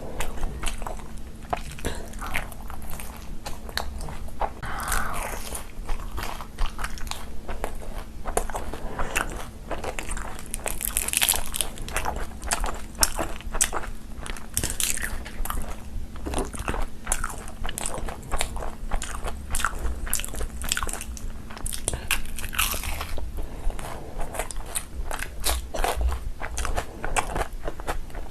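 Close-miked eating: wet chewing and smacking of curry and rice, with crisp crunching bites, likely into raw green chillies, in an irregular run of clicks and crackles.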